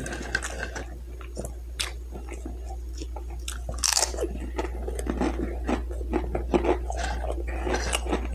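A person chewing crunchy food close to the microphone, with many small wet mouth clicks and a loud crunch about four seconds in, over a steady low hum.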